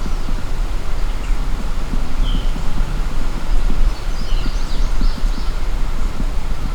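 Steady low rumble of wind buffeting the microphone outdoors, with a few short, faint bird chirps about two seconds in and again around four to five seconds in.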